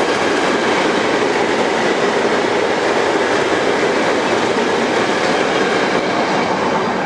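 Freight wagons of an intermodal container train rolling past on the rails, a loud steady noise of wheels on track. It eases slightly near the end as the last flat wagon goes by.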